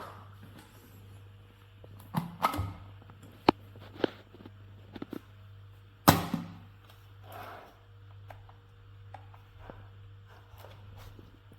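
A few scattered knocks and clunks from hard objects being handled, the loudest about six seconds in, over a steady low hum.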